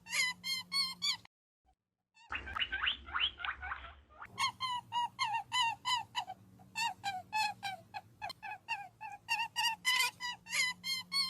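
Rapid series of short, pitched animal calls, several a second, coming in three stretches with brief gaps where the sound cuts out.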